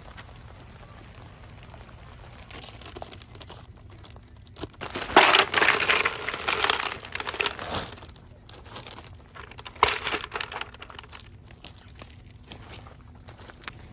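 Crinkling and rustling of something being handled. It is loudest in a burst of about three seconds starting about five seconds in, with a shorter burst around ten seconds.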